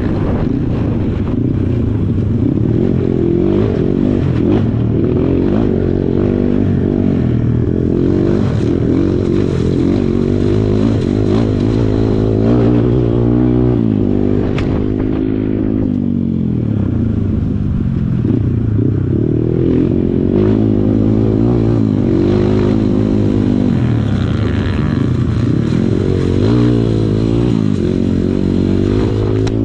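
Kawasaki KLX140 dirt bike's single-cylinder four-stroke engine revving up and down repeatedly under riding load, with rattling from the bike.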